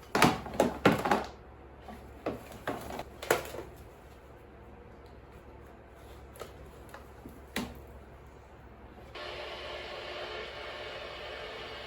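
A few sharp knocks and clacks of hard objects being handled, then about nine seconds in a radio switches on to a steady hiss of static.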